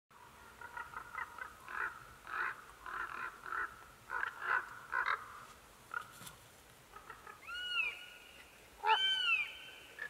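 Wild birds calling: a run of short, rough calls in the first half, then two long, arching mewing calls of a common buzzard, about a second and a half apart, near the end; the second one is the loudest.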